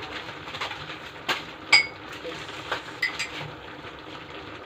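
A cooking utensil clinks and knocks against a pan several times while pasta, chicken and cream sauce are stirred. The loudest clink rings briefly, a little under two seconds in, over a steady low hiss.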